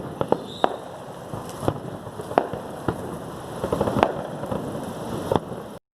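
Fireworks finale going off: sharp bangs at uneven intervals over a steady crackle. It cuts off suddenly near the end.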